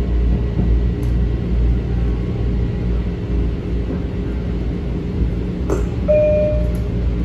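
Inside a Metro-North M7 electric train car running between stations: a steady low rumble of wheels on rail and traction motors. Near the end there is a click, then the first note of the falling chime that precedes the automated next-stop announcement.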